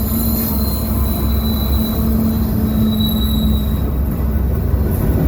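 CSX freight train rolling by: a steady low rumble with thin, high-pitched wheel squeal over it.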